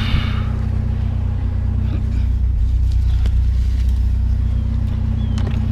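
Vehicle engine idling steadily, a constant low hum, with a few faint clicks and knocks over it.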